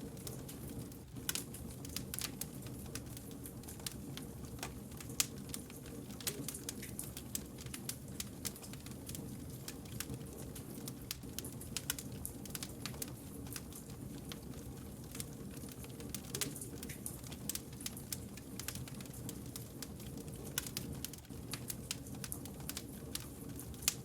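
Wood fire burning, firewood crackling and popping in quick irregular snaps over a steady low rush of flame.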